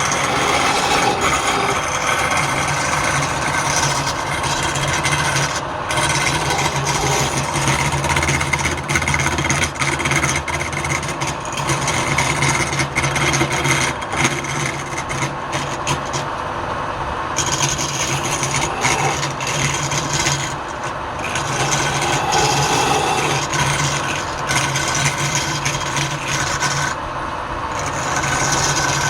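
Wood lathe running with a steady motor hum while a tool works the spinning wood, a continuous rasping scrape with brief dips.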